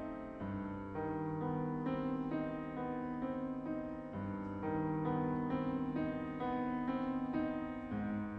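Piano playing: a flowing melody of single notes over held bass notes.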